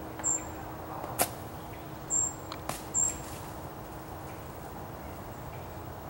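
Three short, high-pitched bird chirps spread over a few seconds, with two sharp clicks between them, over steady outdoor woodland ambience.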